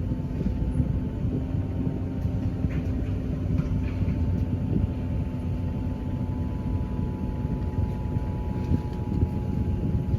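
Steady low rumble with a faint, even whine running through it, like a running vehicle or machine.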